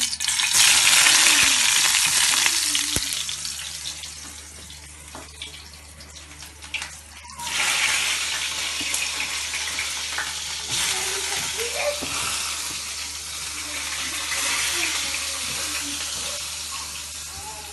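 Eggplant slices frying in hot oil in a pan. A loud sizzle goes up as a slice goes into the oil and eases off over a few seconds; then a second spell of sizzling starts suddenly about seven and a half seconds in and carries on.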